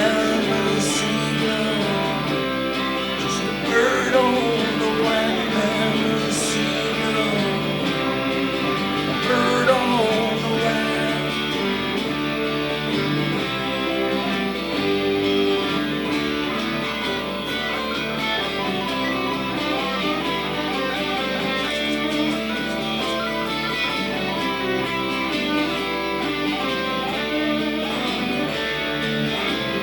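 Instrumental break of a guitar-led song: strummed guitars play on with no lyrics sung.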